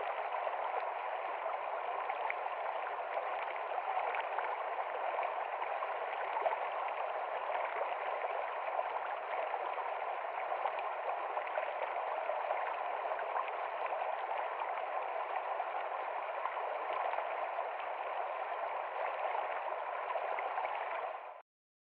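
Heavy rain on a window pane: a steady hiss of many small drop ticks. It cuts off abruptly just before the end.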